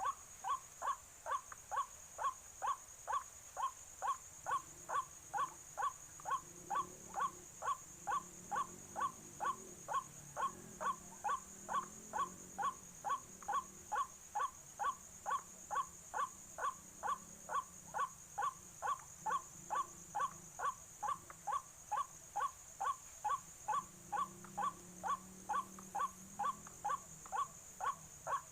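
Recorded call of a white-breasted waterhen (ruak-ruak) played back as a lure. It is a short call note repeated at a perfectly even pace of about two a second. A steady high-pitched hum runs underneath.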